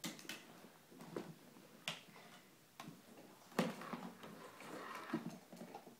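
Scattered light clicks and knocks of toys being handled on a plastic toy truck, a handful of them, the sharpest at the start, about two seconds in and a little past three and a half seconds, with faint rustling between.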